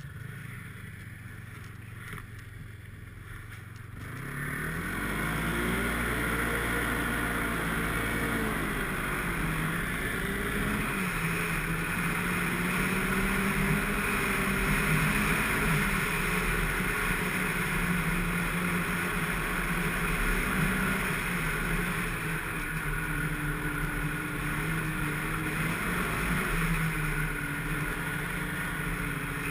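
Snowmobile engine idling low, then throttled up about four seconds in and running on, its pitch rising and falling with the throttle, under a steady hiss.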